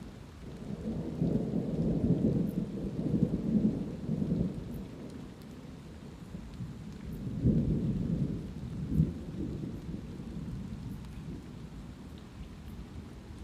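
Thunder rumbling in two rolls over light rain. The first roll swells about a second in and lasts a few seconds; the second comes around seven and a half seconds in, with a sharper clap near nine seconds. Faint scattered raindrop ticks run underneath.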